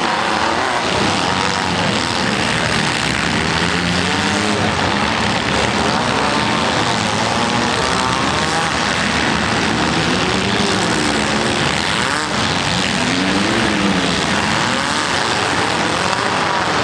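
Several small-car demolition derby engines revving up and down together, loud and continuous, with the pitch repeatedly rising and falling.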